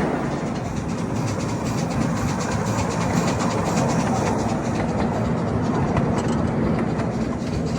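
Miniature ride-on train running steadily along its track: a continuous rumble and clatter of wheels on rails, heard from a passenger car.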